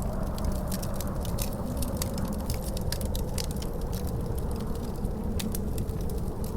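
Wood fire crackling with many irregular sharp pops, over a steady low rumble of wind with a faint wavering howl.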